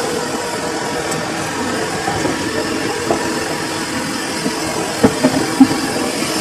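Samsung washing machine running a full load, with a steady mechanical hum and rumble. A few sharp knocks come about five seconds in.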